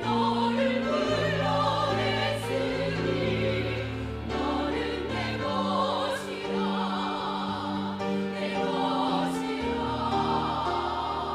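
A small church vocal ensemble singing a slow hymn in held chords, over a sustained instrumental accompaniment with a steady bass.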